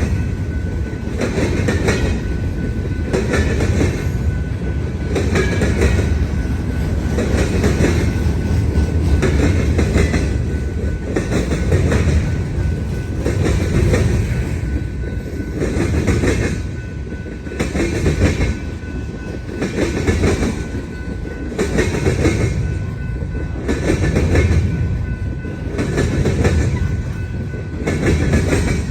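Union Pacific manifest freight train's cars rolling past, wheels clattering over a rail diamond crossing in a steady beat of about one strike a second over a low rumble.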